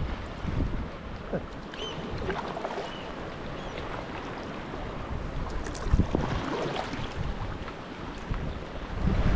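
Sea kayak being paddled in gusty wind: wind buffets the microphone while paddle strokes splash in the water at an irregular pace, with a heavier splash about six seconds in. A few brief high chirps sound about two and three seconds in.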